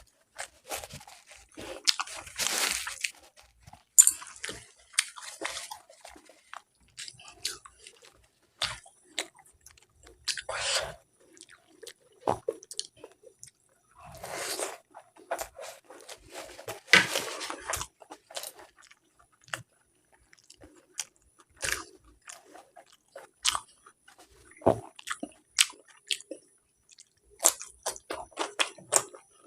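A person eating close to the microphone: chewing a meal of pulao rice, dum aloo and egg, with many short wet mouth clicks and a few longer crunchy chewing bouts.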